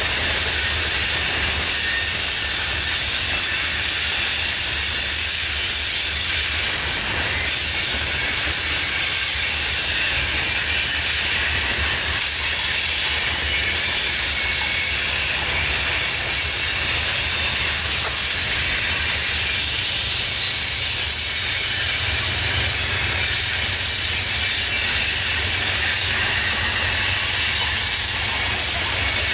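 Loaded covered hopper cars of a CSX freight train rolling past. The steel wheels on the rails make a continuous high hiss over a steady low rumble.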